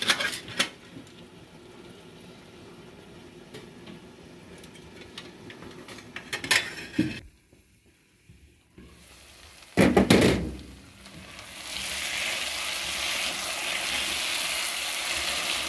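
Chicken pieces in masala frying in a nonstick pan and being stirred with a spatula, a loud steady sizzle that starts about two-thirds of the way through. Before that the covered pan simmers faintly, with a few clinks of the glass lid at the start and a loud knock shortly before the sizzle.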